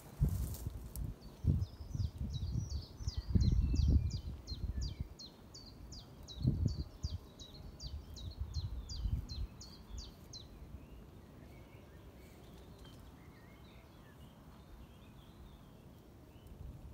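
A small bird singing a long run of high, quick, down-slurred notes, about three a second for roughly nine seconds, followed by a few faint chirps. Gusts of wind rumble on the microphone under the song, strongest about three to four seconds in and again briefly at six to seven seconds.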